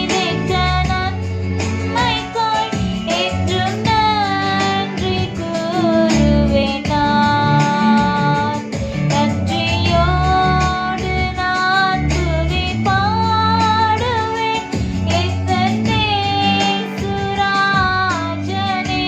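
A song with a high voice singing a melody over a steady beat with bass and guitar accompaniment.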